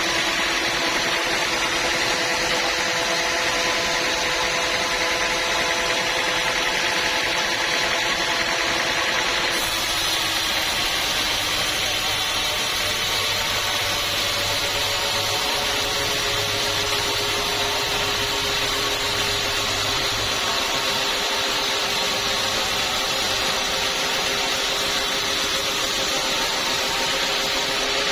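Sawmill bandsaw running steadily, its blade cutting through acacia wood, with its engine running under it. The tone of the machine shifts about ten seconds in and then holds steady again.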